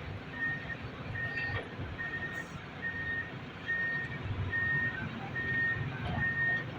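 A construction vehicle's reversing alarm sounds a single high-pitched beep a little more than once a second. It runs steadily over the low rumble of the vehicle's diesel engine.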